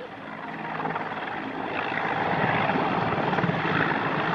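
MH-53J Pave Low helicopter's rotor chop and turbine engines, growing louder over the first two seconds and then holding steady, as it takes off after the pickup.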